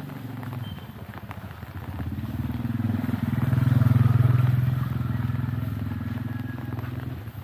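A motorbike engine going past close by. It grows louder to a peak about four seconds in, then fades away.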